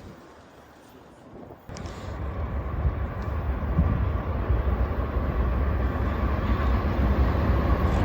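Train rumbling by, a steady low rumble that comes in abruptly a second and a half in and grows louder.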